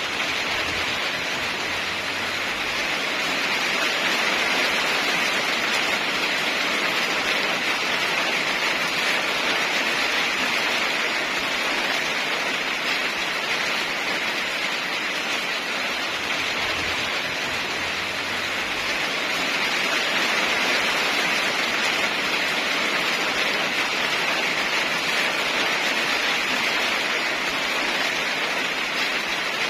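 Steady heavy rain, a dense even hiss that swells and eases gently every few seconds.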